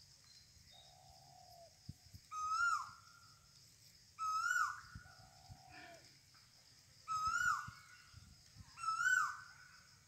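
A bird calling over and over: four loud, short hooting calls, each with a falling hook, about every two seconds. Softer, lower, drawn-out notes come in between.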